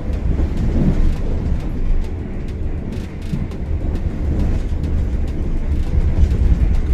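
Passenger train running on the rails: a steady low rumble with frequent thin clicks.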